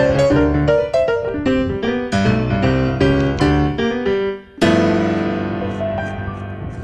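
Piano music: a quick run of notes, a short break about four and a half seconds in, then a full chord struck and left to ring and fade.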